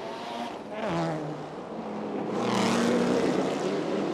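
Racing car engines running at speed. One engine note falls in pitch about a second in, and the level swells from about two and a half seconds in as a car comes through.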